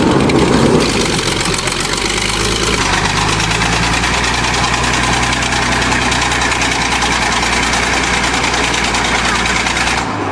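Bulldozer's diesel engine running hard on a steep hill climb, then cutting out suddenly near the end.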